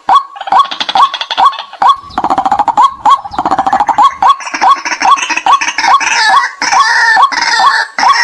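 White-breasted waterhens calling: loud, repeated "kwak" notes at about two a second, overlaid from about two seconds in by a faster, denser chattering chorus.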